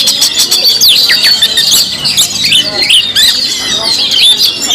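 Oriental magpie-robin (kacer) singing loudly: a dense, unbroken run of sharp whistled notes and quick rising and falling glides, high-pitched.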